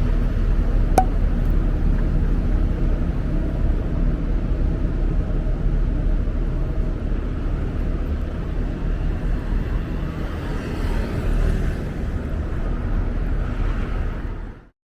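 Steady outdoor city ambience, mostly a low rumble of the kind traffic makes, with one sharp click about a second in; it fades to silence just before the end.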